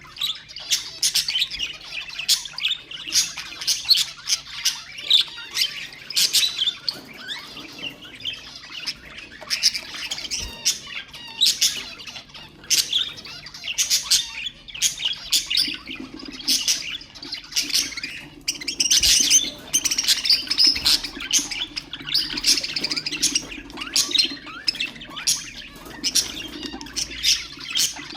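Budgerigars chattering: a dense, continuous stream of overlapping chirps, warbles and squawks.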